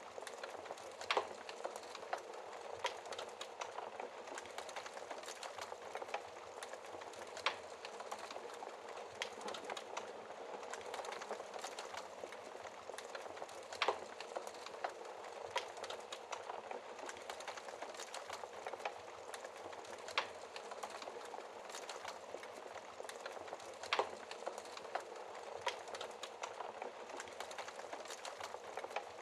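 Campfire burning: a steady hiss of flames with frequent small crackles and sharper wood pops every few seconds.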